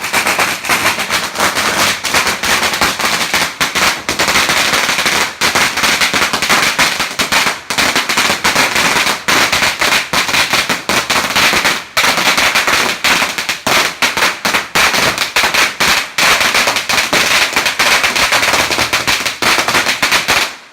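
A string of Chinese New Year firecrackers going off in a rapid, continuous barrage of sharp bangs. It stops abruptly near the end.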